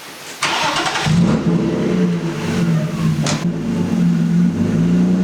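Car engine being started: a short burst of cranking, then the engine catches about a second in and runs at a steady idle. A brief sharp knock is heard about three seconds in.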